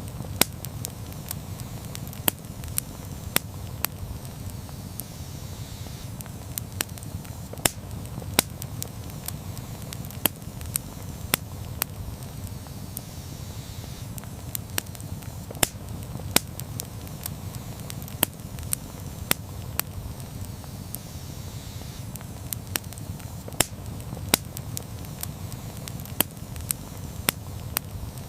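Campfire burning, with sharp, irregular pops and crackles from the wood over a steady low rumble of the flames.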